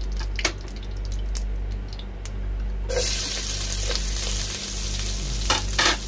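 Sliced onions sizzling as they fry in hot ghee in a pot, with a spoon stirring and clicking against the pot. About halfway through, the sizzle suddenly becomes much louder and brighter.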